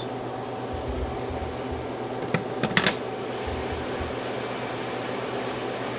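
Cooling fans of a 12 V 3 kW low-frequency inverter and of electric heaters running steadily under heavy load, with a faint steady whine. A few light clicks come near the middle.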